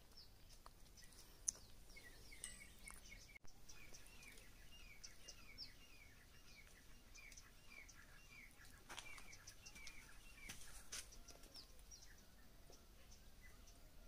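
Faint birds calling: a run of short, downward chirps repeated over several seconds, with scattered higher-pitched calls among them.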